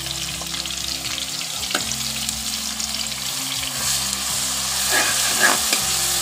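Onion, garlic paste and curry leaves sizzling in hot oil in a steel kadhai as a steel spoon stirs them, with a few sharper scrapes of the spoon against the pan about five seconds in.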